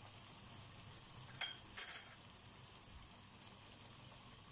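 Tomato, onion and spice masala sizzling gently in oil in a nonstick wok, well into its bhuna frying stage, with two short clinks about one and a half and two seconds in.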